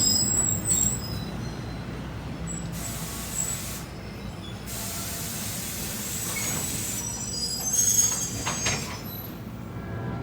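Train at a station: high wheel squeal dying away in the first second, then two long hisses of air, a shorter one about three seconds in and a longer one from about five seconds. A few more squeals and knocks near the end.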